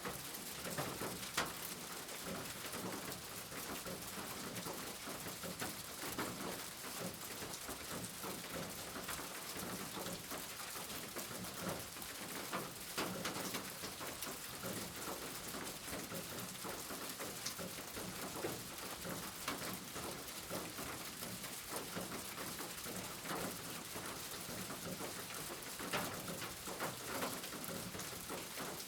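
Steady rain falling, with single drops ticking sharply on a nearby surface.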